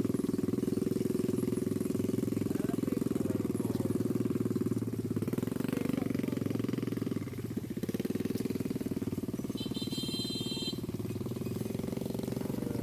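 A small engine running steadily with a fast, even pulse, easing off briefly about seven seconds in. A short high-pitched trill sounds near the ten-second mark.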